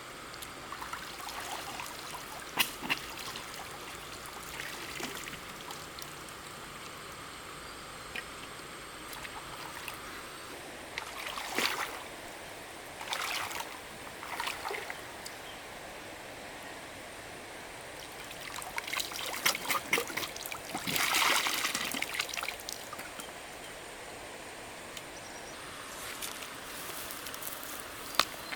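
Water trickling and splashing in short bursts, the longest lasting a few seconds past the middle, over a steady background hiss with scattered light clicks.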